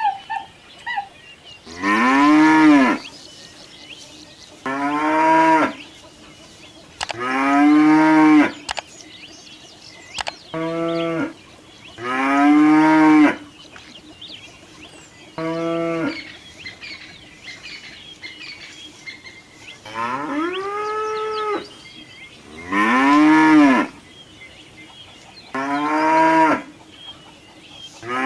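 Cattle mooing: about nine drawn-out calls, each around a second long, that rise and then fall in pitch, separated by pauses of one to three seconds.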